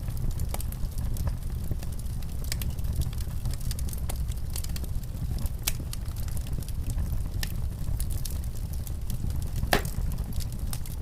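Wood fire crackling in a fireplace: a steady low rumble of flames with scattered sharp pops and crackles, one louder pop near the end.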